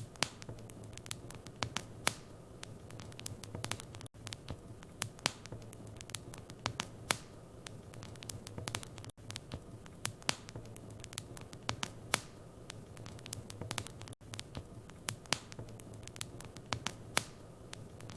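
Wood fire in a fireplace crackling, with irregular sharp pops over a steady low hiss and hum. The sound cuts out for an instant about every five seconds.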